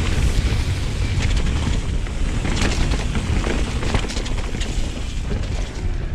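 Wind buffeting the microphone with a steady low rumble as a mountain bike rides fast down a rough dirt trail, with a few sharp clatters of the bike over bumps.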